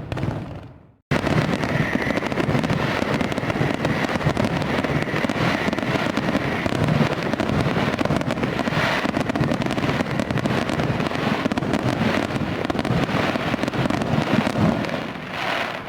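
Fireworks going off in a dense, continuous crackle of many small bursts. The sound cuts out abruptly about a second in and comes straight back.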